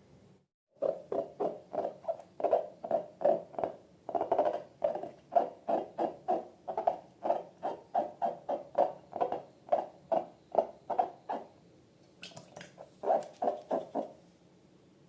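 A rapid run of short rubbery squeaks, about three a second, that breaks off briefly near the end and then resumes for a few more.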